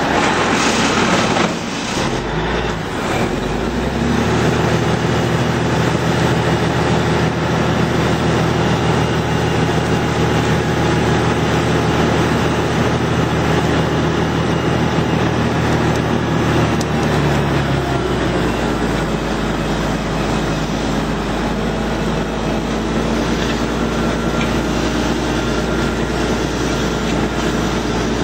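Steiger four-wheel-drive tractor's diesel engine running steadily under way. Its note settles after a noisy start about four seconds in, then drops to a lower hum about two-thirds of the way through.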